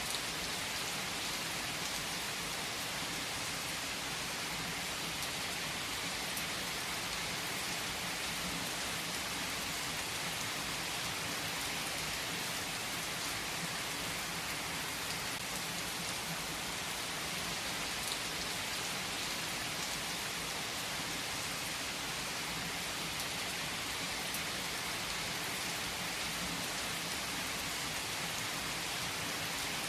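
Steady rain falling, an even, unbroken hiss with a few faint drop ticks.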